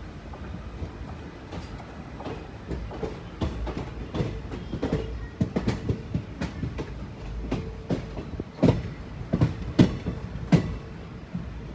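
Train rolling along the track, wheels clacking over rail joints in irregular knocks above a low rumble, the knocks growing louder toward the end.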